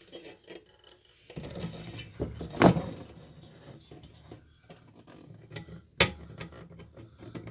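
Handling of a sheet-metal hurricane lantern: scattered clinks and knocks, with a louder knock a little under three seconds in and a sharp click about six seconds in.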